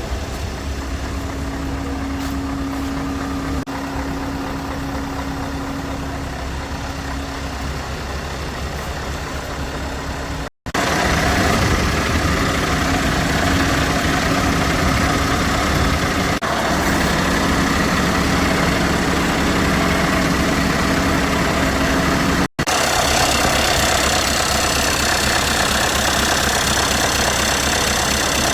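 Scania R580 truck's V8 diesel engine idling steadily. The sound breaks off abruptly twice, about a third and about three-quarters of the way in, and each later stretch is louder with more high-pitched clatter.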